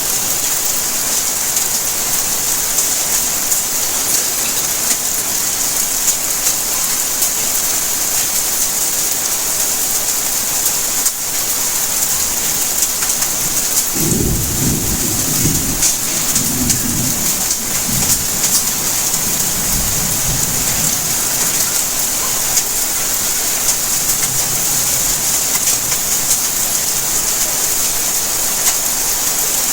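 Steady rain falling, an even hiss. About halfway through, a low rumble of thunder rolls for several seconds and fades away.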